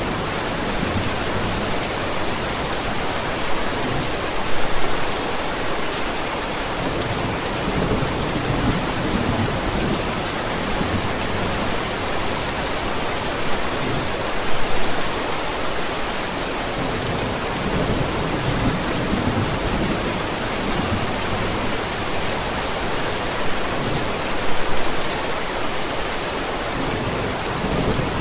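Steady heavy rain falling, with low rumbles of thunder rising briefly about every ten seconds, near the start, in the middle and near the end.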